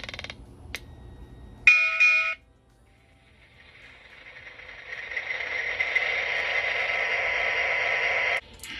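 MTH Protosounds sound system in a Rail King Union Pacific gas turbine model locomotive going through its startup: two clicks, a short loud chime-like tone, then the turbine's rising whoosh building up and holding steady, cut off briefly near the end. It is the sign that the locomotive's sound board now starts up properly.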